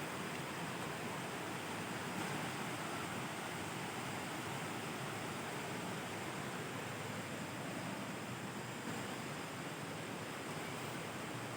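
Waterfall rushing: falling water as a steady, unbroken roar of noise.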